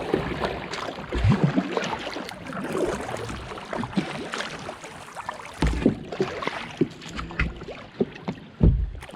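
Kayak paddling: paddle strokes and water splashing and sloshing, with a few dull low thuds.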